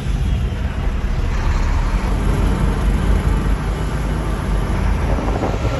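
Motor vehicle running: a steady low rumble with road noise.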